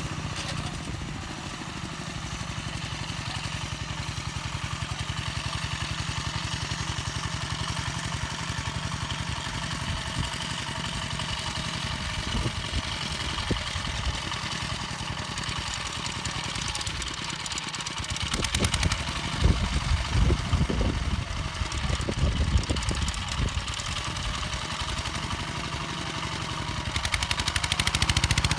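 Small engine of a home-built mini-tractor made from a walk-behind tractor, running steadily with even pulses while rotary tilling soil. About two-thirds of the way through comes a louder, uneven stretch of knocking and clatter.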